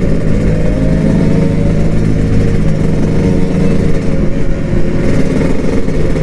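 Kawasaki Ninja RR 150's two-stroke single-cylinder engine running at fairly steady revs while riding, with low wind rumble on the mic.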